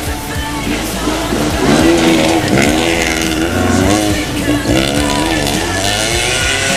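Rally car engine revving up and down as the car slides through a snowy hairpin, the pitch rising and falling several times in the middle of the pass.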